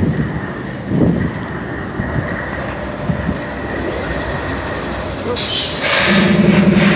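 GE Dash 9-40CW locomotive's V16 diesel engine idling steadily. A loud burst of air-like hiss comes about five and a half seconds in, and a louder steady hum with several tones sets in near the end.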